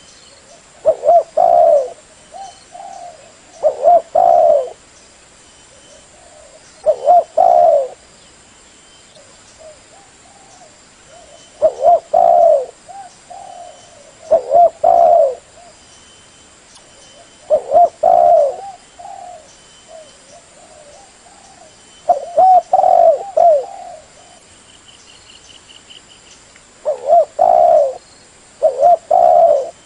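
Spotted dove cooing: short, low, repeated coo phrases every three to five seconds, about nine in all.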